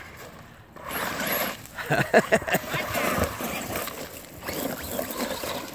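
Electric RC truck (Traxxas Rustler VXL) driving through wet mud: the brushless motor whining and the tyres churning mud, starting about a second in, with a short stretch of voice around two seconds in.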